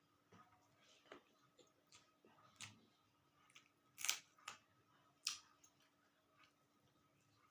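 Faint eating sounds: scattered soft mouth clicks and smacks while chewing a meal of dal, rice and roti. Two louder clicks come about four and five seconds in.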